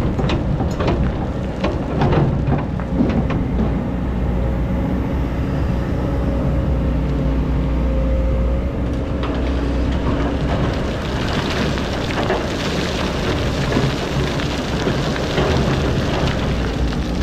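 Hydraulic excavator's diesel engine running steadily under load while its bucket digs into hard, compacted sand. Sharp knocks and clacks come in the first few seconds, and a harsher scraping, crunching hiss builds from about halfway through.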